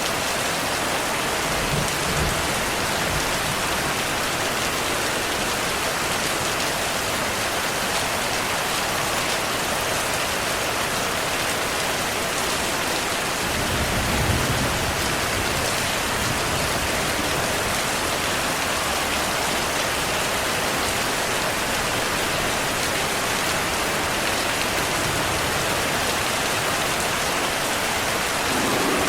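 Steady heavy rain, with low thunder rumbling twice: briefly about two seconds in, and longer and stronger about halfway through.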